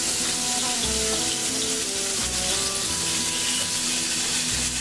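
An egg and bacon strips sizzling steadily in frying pans on a gas stove.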